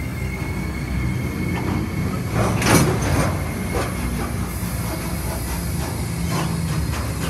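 Freight train grain hopper wagons rolling past close by: a steady rumble of wheels on rail, with a louder burst of metallic wheel noise about two and a half seconds in and fainter ones later.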